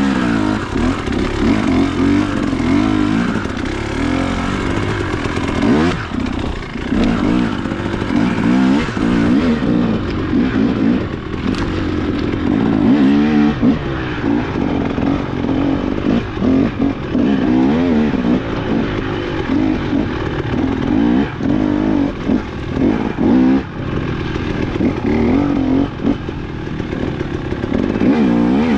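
Dual-sport motorcycle engine being ridden off-road, its revs rising and falling over and over as the throttle is worked, with a few sharp knocks along the way.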